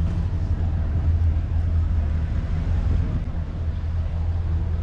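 Car engine running with a steady low rumble as the vehicle drives slowly through street traffic.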